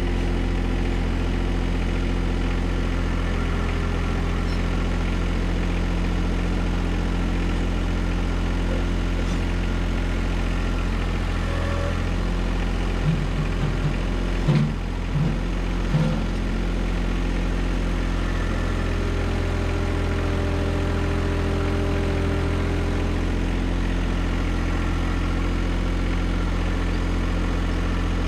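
John Deere 1025R compact tractor's three-cylinder diesel running steadily at idle. A few brief low bumps come about halfway through.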